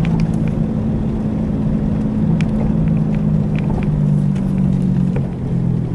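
An engine running steadily with a low, even hum and a few faint clicks.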